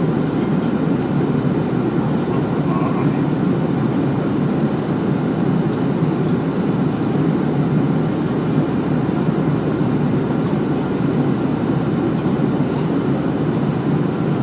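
Steady cabin noise of an airliner in flight: the even engine and airflow noise heard inside the passenger cabin.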